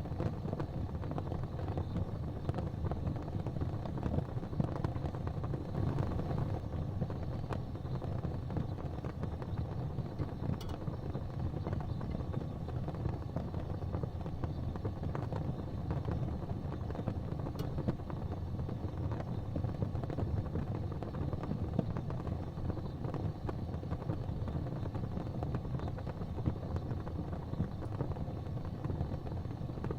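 Gas fireplace flames burning with a steady low rumble, with a few faint ticks.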